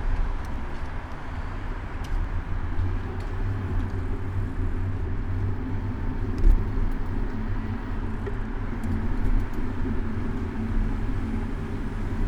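City road traffic with car engines heard from a moving bicycle, under a steady low rumble, with one sharp thump about six and a half seconds in.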